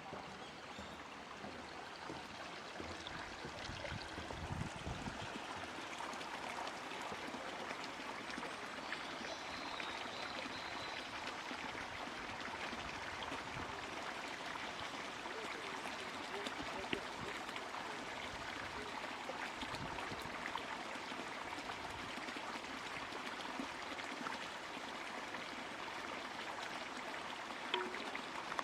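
Shallow stream babbling and trickling steadily over stones.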